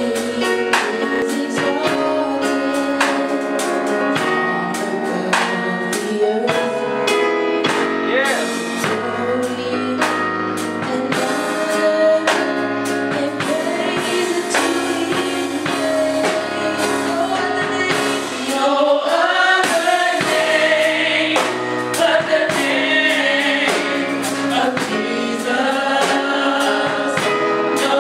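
Gospel worship music: voices singing over a band with drums, with a lead voice's wavering runs standing out a little past the middle.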